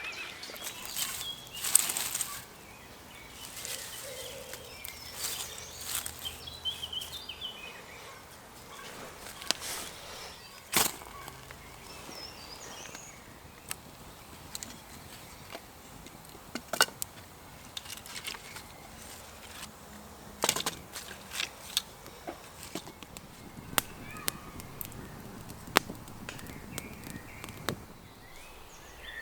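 Scattered sharp knocks and clicks at irregular intervals, with birds chirping now and then in the background.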